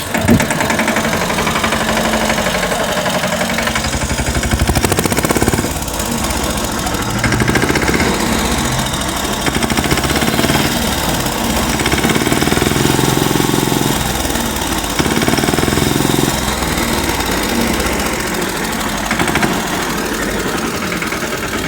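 Toy John Deere tractor driving along: its small motor and gears make a fast, steady rattling buzz that swells and eases a little.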